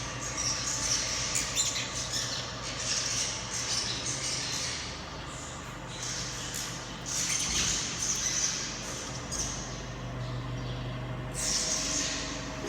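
Swiftlets calling: harsh, high chattering that swells in bursts of about a second, over a steady low hum.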